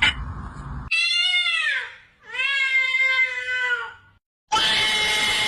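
Cat meowing twice: two long meows, the first rising then falling in pitch, the second held steadier. Near the end a louder, noisier sound cuts in abruptly.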